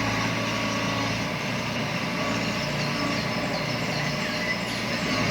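A vehicle engine running steadily, with faint high chirps a few seconds in.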